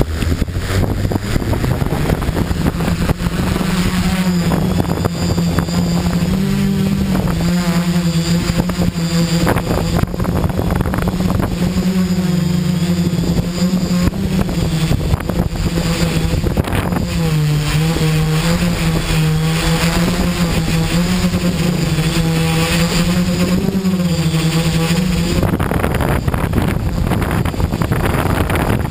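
XAircraft X650 V4 quadcopter's electric motors and propellers humming in flight, the pitch stepping up and down as the throttle changes, over rushing wind noise. About 25 seconds in the hum drops away and mostly wind noise is left.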